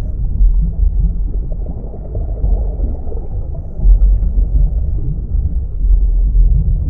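Deep underwater rumble that swells and eases over a few seconds. It sits almost wholly in the low bass, with nothing sharp above it.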